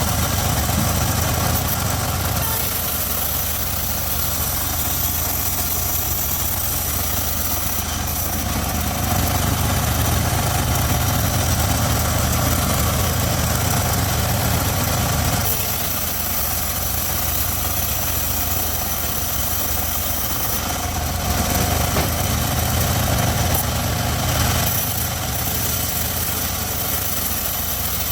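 Homemade circular sawmill running steadily, its engine humming low with a bright high hiss above; the sound shifts in character a few times, around two seconds in, about halfway through and again a few seconds later.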